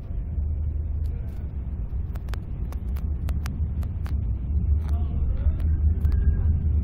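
Low, steady rumble of a passenger rail coach in motion heard from inside its compartment, with a scatter of sharp clicks and knocks from the running gear and fittings through the middle.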